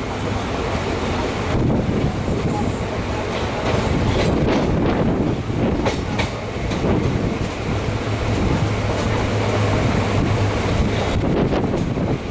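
Passenger train running along the track: a steady rumble with a low hum and a few sharp clicks of the wheels over rail joints.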